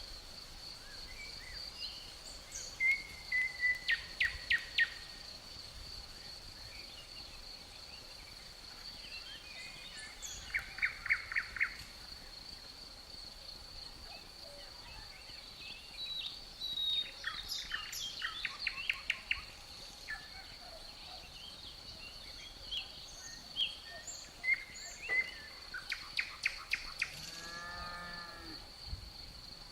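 Outdoor nature ambience: small birds singing in bursts of quick repeated trill notes, four times, over a steady high-pitched insect drone. Near the end comes one short, low animal call.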